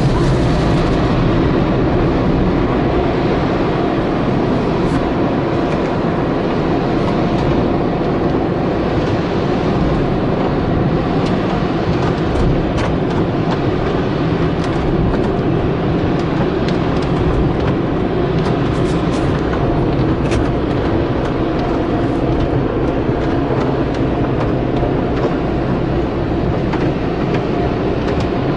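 Automatic car wash machinery running: a loud, steady rush with a low rumble and a faint hum underneath, with scattered light ticks.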